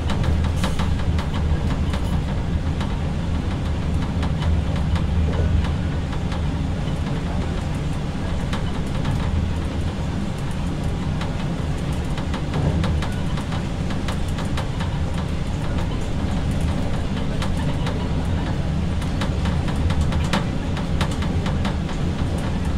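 Passenger train running along the track, heard from inside the rear of the last coach: a steady low rumble of wheels on rail. Sharp clicks come as the wheels cross pointwork, mostly in the first second and again about twenty seconds in.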